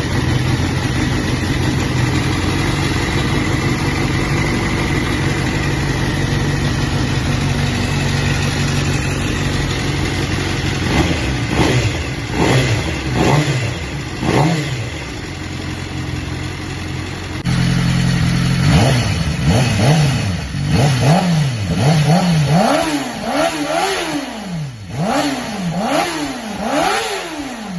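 Motorcycle engine idling steadily, then revved with short throttle blips, each rev rising and falling in pitch. The blips start about ten seconds in and come quicker and closer together in the second half.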